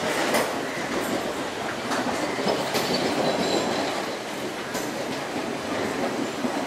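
Indian Railways passenger coaches rolling along the platform line, wheels clicking over the rail joints with a steady rumble of the running gear.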